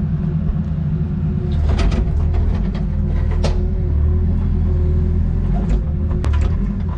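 Excavator's diesel engine running steadily under work, with a few sharp knocks and cracks about two, three and a half, and six seconds in.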